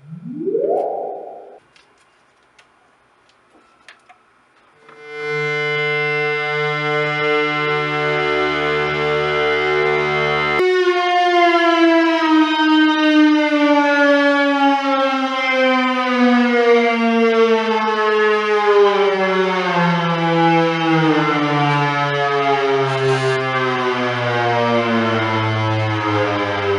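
Altair 231 analog synthesizer: a short rising pitch sweep, a few seconds' pause with faint clicks, then a steady buzzy tone rich in overtones. About ten seconds in it switches to a tone that glides slowly downward in pitch.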